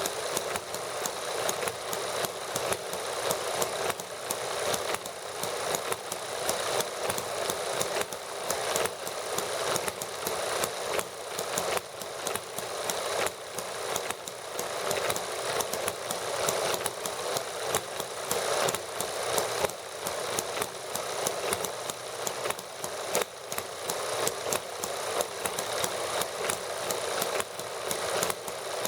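Small model gasoline engines running together: a fast, steady clatter of firing strokes whose loudness swells and dips every second or two.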